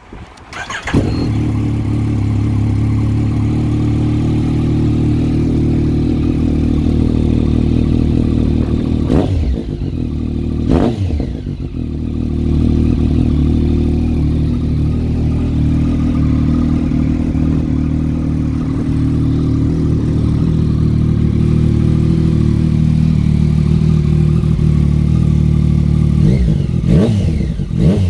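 Yamaha MT-09 SP's three-cylinder engine, breathing through an Akrapovic Racing Line carbon exhaust, catches about a second in and settles into a steady idle. It is blipped twice, a couple of seconds apart, about nine to eleven seconds in, then idles again. Near the end it is given several quick throttle blips.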